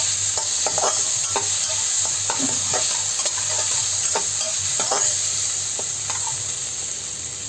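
Pork pieces with sliced onions and green chillies stir-fried in oil in a metal kadai: a steady sizzle with the spatula scraping and clicking against the pan every second or so, fading a little near the end.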